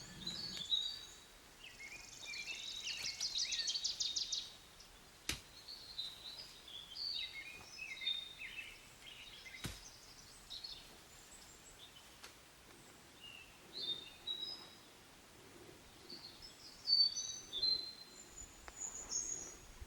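Small songbirds singing and chirping, with many short high notes throughout and a fast trill about two seconds in. Two sharp clicks stand out, one about five seconds in and another near the ten-second mark.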